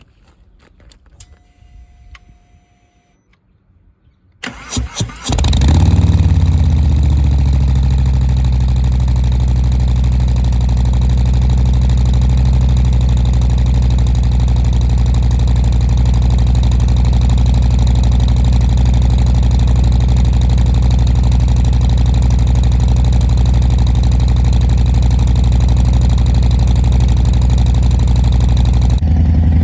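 2023 Harley-Davidson Low Rider S's Milwaukee-Eight 117 V-twin being started through Cobra Neighbor Haters slip-on mufflers: a few faint clicks, then the starter cranks about four seconds in, the engine catches and settles into a steady, loud idle. The sound changes abruptly about a second before the end.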